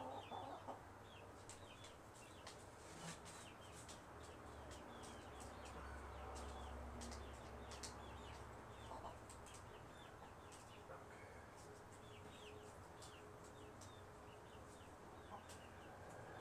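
Faint bird chirping: many short, high chirps repeating steadily, with scattered light clicks.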